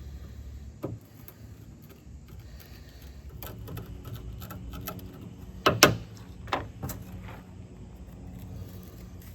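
Pith being dug and scraped out of a mullein stalk: scattered small scrapes and clicks, with one sharper click about six seconds in.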